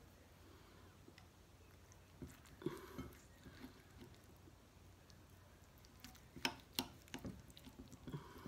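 Faint, scattered clicks and soft knocks of utensils and dishes being handled at a table, over quiet room tone; the sharpest two clicks come close together about two-thirds of the way through.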